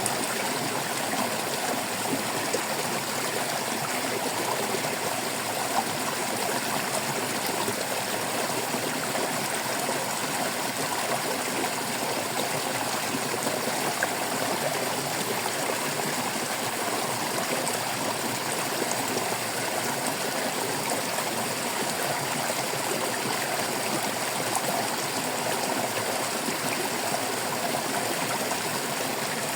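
Shallow stream running and trickling over rocks, a steady babble with small splashes and gurgles.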